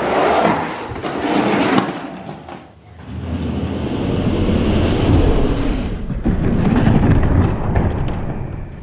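Toy diecast monster trucks racing down a track: a clattering rattle of wheels for the first few seconds, then a steady rolling rumble.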